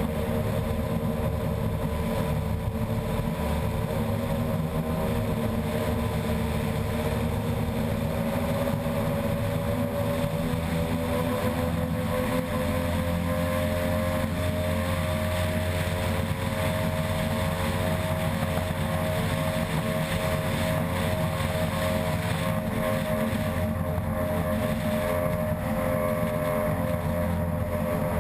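Unlimited-class outboard ski race boat running flat out, its engine note climbing slowly over the first half and then holding steady over a constant rush of wind and water.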